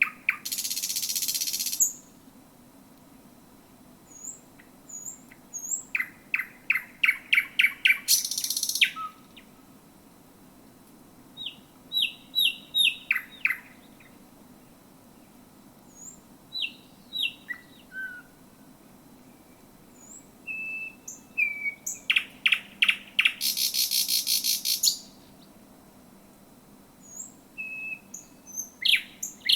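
Thrush nightingale singing close to the microphone: phrases of fast repeated notes that end in loud, dry rattles, three times, with short whistles and chirps in the pauses between them.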